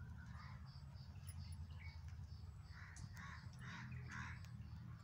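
A bird gives a rough call near the start, then four more in quick succession about three seconds in, over faint high chirping and a steady low rumble.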